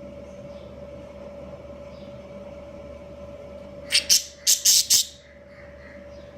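Budgerigars giving a quick run of about five loud, harsh chirps about four seconds in, with faint chirping before and after, over a steady background hum.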